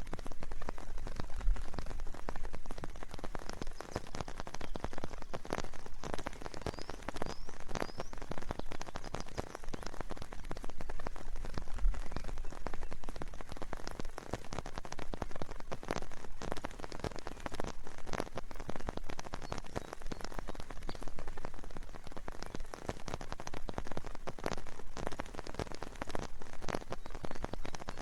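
Steady rain, with dense, irregular drops ticking on a nearby surface.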